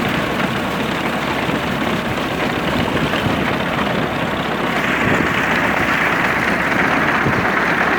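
Tractor engine running steadily with a Massey binder working behind it. About five seconds in, a hissing, rustling layer gets louder.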